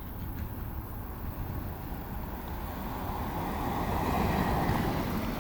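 A road vehicle passing: its noise swells to a peak about four to five seconds in, then eases slightly, over a steady low rumble.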